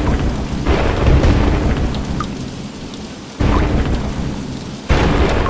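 Heavy rain pouring with deep rumbling thunder. The sound jumps up suddenly twice, about three and a half and five seconds in.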